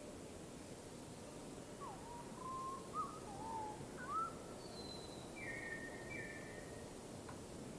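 Birds singing a run of short whistled notes that swoop up and down, lower ones first and then a few higher ones, over a steady background hiss.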